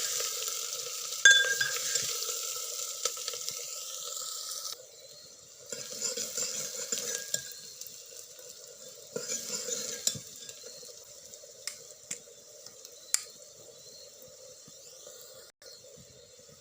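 Chopped onions sizzling as they fry in hot oil in a pan, stirred with a spatula that scrapes and clinks against the pan now and then. The sizzle is strongest for the first few seconds, then comes back in short spells with each stir, over a steady hum.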